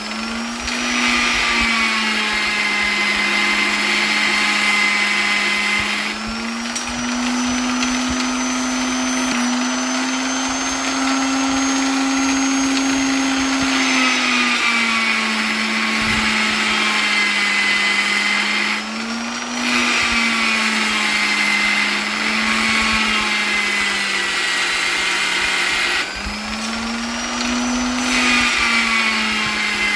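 Electric polisher running continuously with a steady motor hum and whirring hiss. Its pitch rises and falls a little every few seconds, with brief dips in loudness three times.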